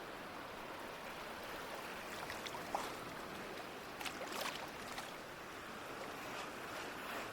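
Ocean waves washing in a steady hiss, with a few short splashes and crackles of water about a third of the way in and just past the middle.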